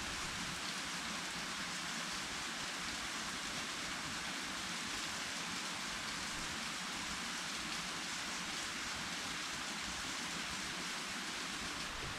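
Steady water noise: an even hiss that does not change or break.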